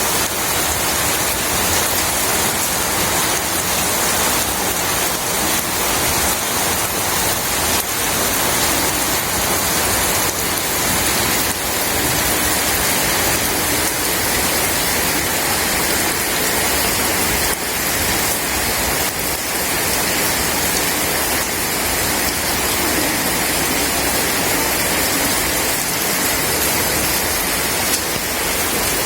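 Rain falling steadily, an even, unbroken hiss of drops on a surface.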